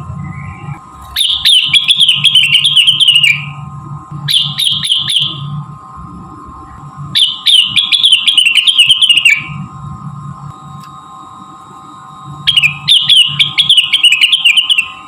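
Cucak rengganis (leafbird) song played as a lure recording: four bursts of rapid, high chattering phrases, each a couple of seconds long, over a steady background hum.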